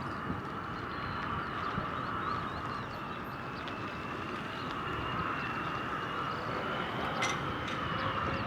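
Steady whine and rush of distant jet aircraft engines, with a few faint chirps and a single click near the end.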